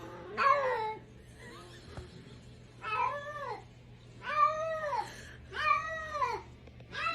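A cat meowing over and over: four drawn-out meows about a second apart, each rising then falling in pitch, with a fifth starting at the very end.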